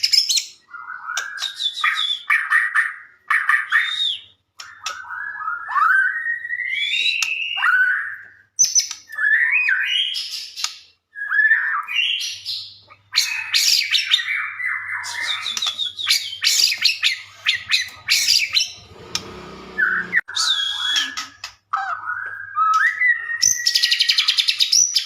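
White-rumped shama (murai batu) singing a long run of varied phrases: clear whistles gliding up and down mixed with fast chattering trills, separated by short pauses. A brief low rustling noise comes about three-quarters of the way through.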